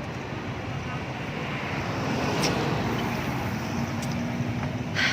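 Motorcycle running on the road, a steady rush of engine and wind noise with a faint steady hum, and a short click near the end.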